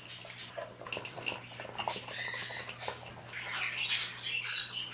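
Pet birds chirping and squawking, short scattered calls that grow louder and shriller near the end.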